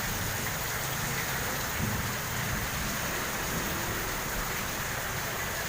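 Very heavy rain pouring down onto a flooded street: a steady, dense hiss with no let-up.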